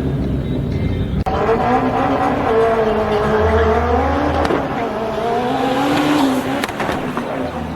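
Sports cars at a drag strip, engines revving up and down with tyre squeal; the sound changes abruptly about a second in.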